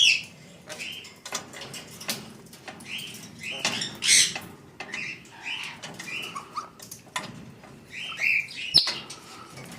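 Pet parrot making a string of short chirps with scattered clicks. A louder, harsher squawk comes about four seconds in, and a few quick calls follow near the end.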